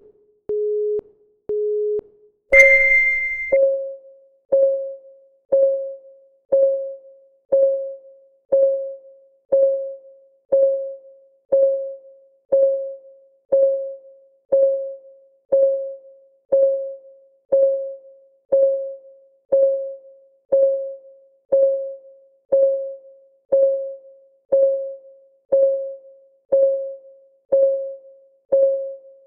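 Countdown timer's synthesized beeps and ticking: three short low beeps a second apart, then one louder, higher beep about two and a half seconds in, followed by an electronic clock tick once a second, each tick a short pitched tone that fades quickly.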